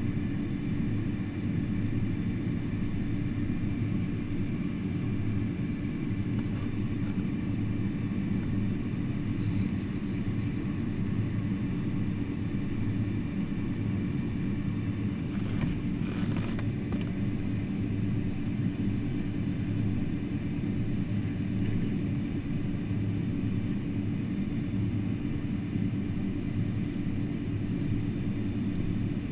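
Steady low rumble with a constant hum inside the cabin of a Boeing 747-400 on the ground after landing, with a brief hiss about halfway through.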